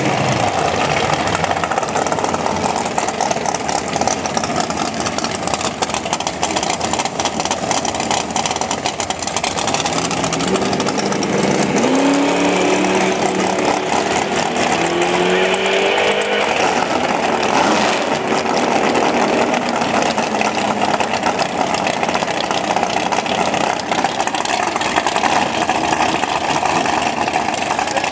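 Saleen Mustang drag car's V8 running loudly as the car rolls forward off a burnout, its pitch rising a few times about halfway through.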